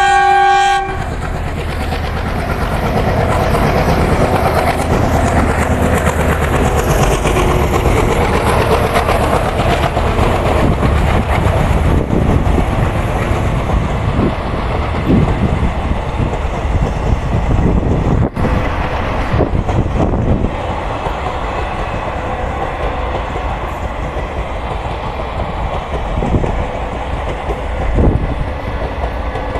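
Indian Railways train passing at speed, its wheels rumbling and clattering on the rails. A horn sounds for about the first second.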